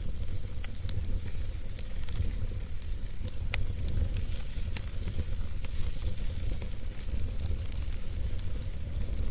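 Wood fire burning in a fireplace: a steady low rumble of the flames with a hiss, broken by frequent sharp crackles and pops at irregular intervals.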